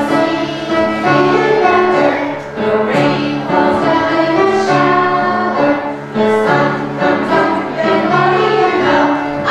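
Music: a choir singing, with sustained chords that change every half second or so.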